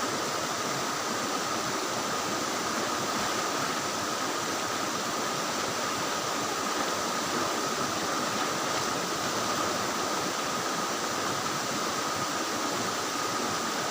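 A small waterfall and river rushing steadily, with a thin steady tone held over it.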